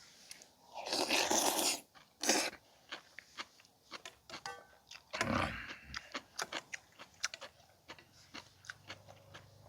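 Close-up eating sounds: chewing a mouthful of rice soup and kimchi, with small wet clicks and smacks throughout. Three louder noisy rushes stand out: about a second in, just after two seconds, and about five seconds in.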